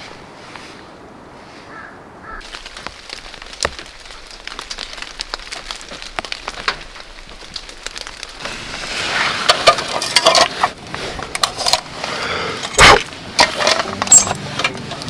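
Dry wood crackling and snapping in a campfire: scattered ticks at first, then from about halfway through denser, louder crackling with several sharp cracks, one deep crack near the end the loudest.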